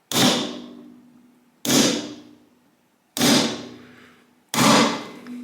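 Four hard hammer blows on a metal bearing installer tool, about one and a half seconds apart, driving the big bearing down onto the motorcycle's lower triple tree; each blow rings and dies away.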